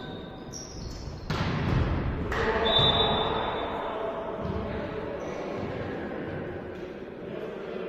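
Indoor volleyball play in a sports hall: the ball is struck sharply twice in the first few seconds, with echoing players' shouts, a brief high squeak and general gym noise after.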